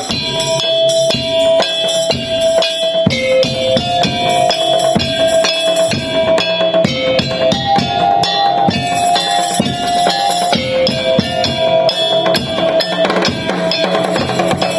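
Madurese tong-tong (daul) ensemble playing: dense, fast drumming and percussion under a held melody line that steps between a few pitches.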